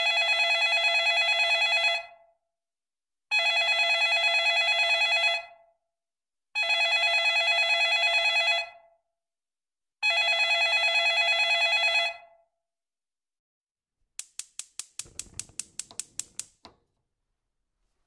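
Telephone ringing: four trilling rings of about two seconds each, with short pauses between them. Near the end comes a quick run of about a dozen sharp clicks.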